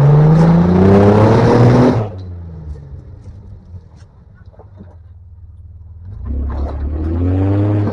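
Off-road 4x4's engine revving hard, its pitch climbing steadily, then easing off about two seconds in. Near the end it revs up again with a rising pitch.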